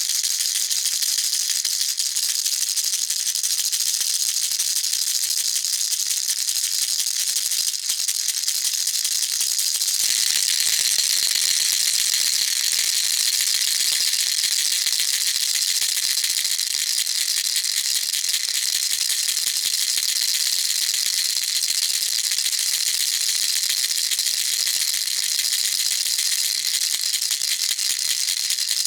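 A baby rattle shaken without a break: a dense, steady rattle with no pauses. Its tone changes a little about ten seconds in.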